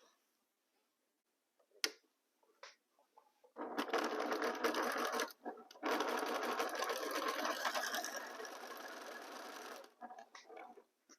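Sewing machine stitching a diagonal seam across fabric squares, in two runs of rapid needle rattle with a brief stop between them. The second run is longer and eases off to a quieter, slower stitch before stopping. A few light clicks come before and after the runs.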